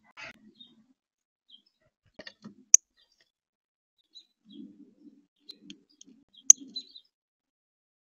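Small birds at a feeder: scattered short, high chirps, with two sharp, loud ticks about four seconds apart, and soft low knocks and rustles in the second half.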